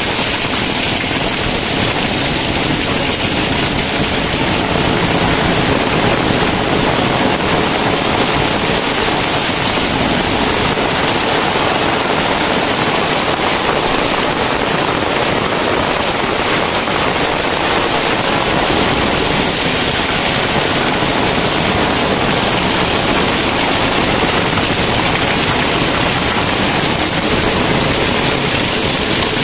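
Very heavy tropical rain pouring down: a loud, steady, dense hiss of drops with no let-up.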